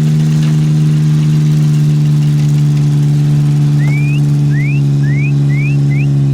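Pickup truck engine running loud and steady at one held speed. About four seconds in, five short rising chirps sound over it.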